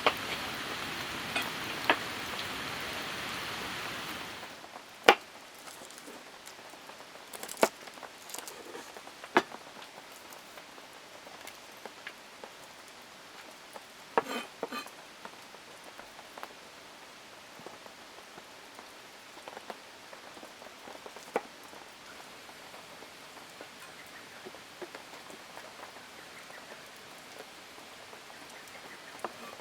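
Steady rain falling, heavier for about the first four seconds, then a softer patter with a sharp tap every few seconds.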